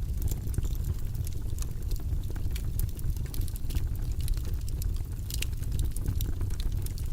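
Wood fire burning in a fireplace: a steady low rumble of the flames with frequent small crackles and pops, several a second.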